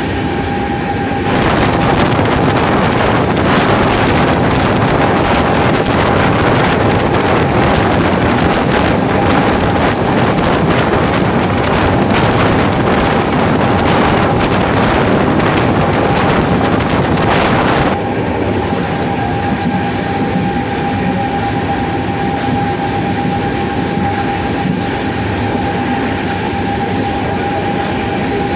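WAP-7 electric locomotive running, its traction motors giving a steady high whine over loud wheel-on-rail noise. The rail noise swells about a second in and eases back about 18 seconds in, while the whine holds steady.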